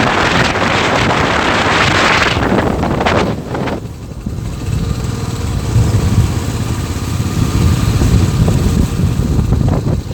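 Royal Enfield motorcycle engine running during a ride, with wind rushing over the microphone for the first three or four seconds, after which the low engine rumble is the main sound.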